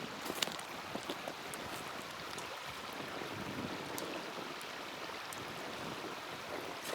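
Small wood fire crackling: a few sharp pops over a steady rushing hiss.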